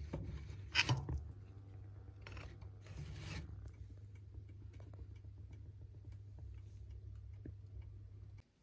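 A steady low hum with a few short clicks and rubbing noises of something being handled, the loudest about a second in; the hum cuts off near the end.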